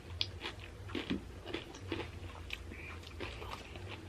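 Close-up chewing of crunchy tortilla chips from a loaded nacho salad: irregular crisp crunches several times a second over a low hum.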